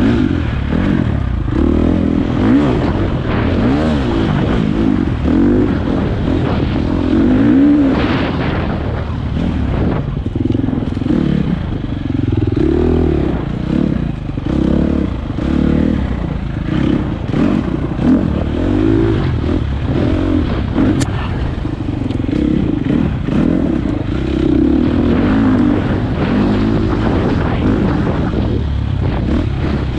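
Four-stroke single-cylinder dirt bike engine running under way, its revs rising and falling continually as the rider works the throttle.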